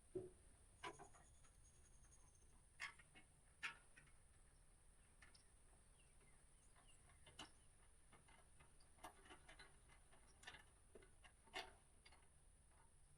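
Near silence broken by faint, irregular clicks and taps of hand work on the bolts holding a truck toolbox support.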